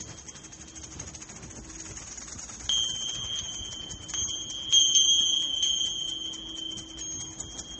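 A high, steady ringing tone from a struck metal chime, starting a little under three seconds in and renewed by fresh strikes a few times, with a faint lower tone beneath.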